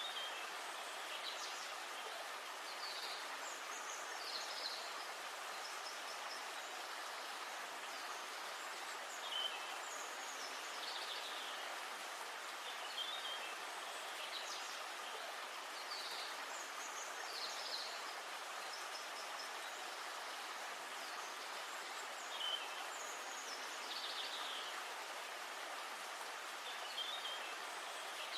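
Steady rush of flowing river water, with short bird calls every second or two.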